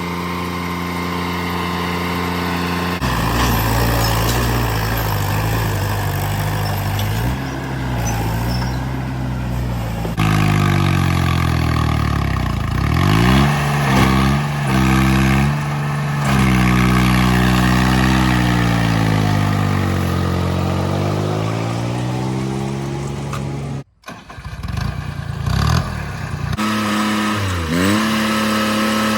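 Tractor diesel engines running and being revved, the pitch rising and falling again and again, with several abrupt cuts between shots.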